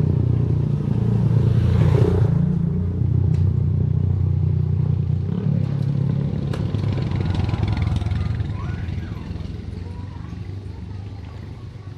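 A motor vehicle engine running close by with a steady low hum, fading away over the last few seconds.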